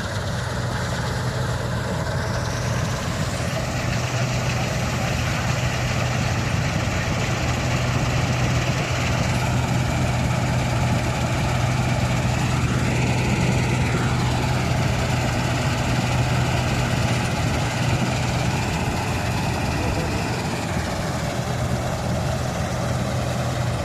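Wheat combine harvester's diesel engine running steadily with a constant low hum and a noisy machinery rush.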